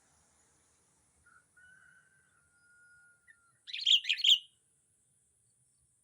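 Bird chirping: a quick burst of several loud, high chirps lasting about half a second, a little before the end, preceded by a faint, long, steady thin whistle.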